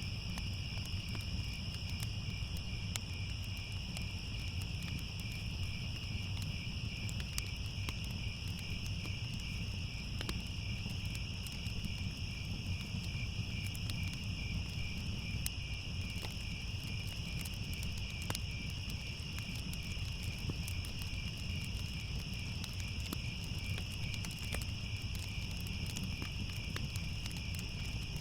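Crickets trilling steadily in a high, unbroken chorus, over the low rumble of a fire with scattered sharp crackles.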